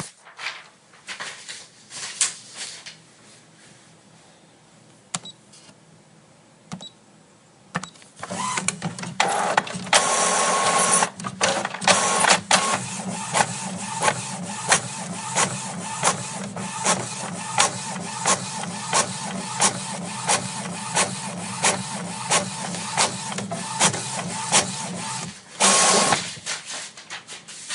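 A printer printing: quiet scattered clicks at first, then about eight seconds in the mechanism starts running with a steady whir and regular clicks about one and a half a second, with brief louder rushes of noise near the start of the run and near its end.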